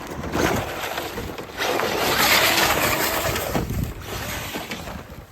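Traxxas RC monster truck driving hard: its electric motor whining under full throttle with tyre and wind noise, loudest in a surge from about one and a half to three and a half seconds in, then easing off near the end.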